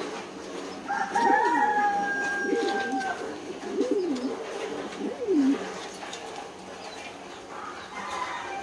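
Caged birds calling: one long, slightly falling call lasting about two seconds, then four low cooing notes about a second apart, with fainter calls near the end.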